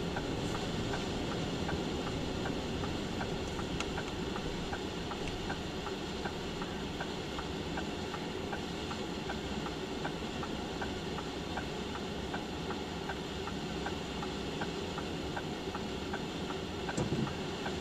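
Steady rushing noise of high wind and blowing snow heard from inside a car, over the car's running engine, with a faint regular tick about twice a second. A short low bump comes near the end.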